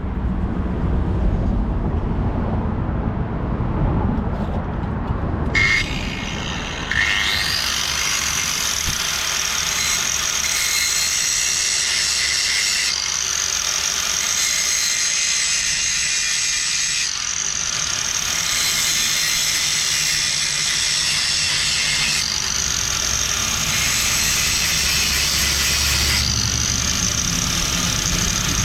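A low rumble, then an angle grinder starting about six seconds in: its whine rises as it spins up, and it grinds steel steadily in several stretches.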